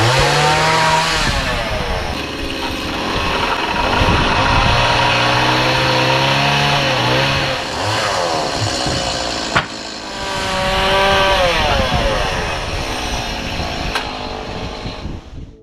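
Small engine of a handheld power tool revving up and falling back several times, with steadier low running in between. A single sharp click comes about ten seconds in.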